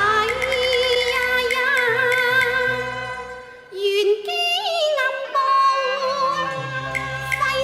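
Cantonese opera singing: a woman sings long, wavering, ornamented lines over instrumental accompaniment. The voice fades briefly about three and a half seconds in, then comes back.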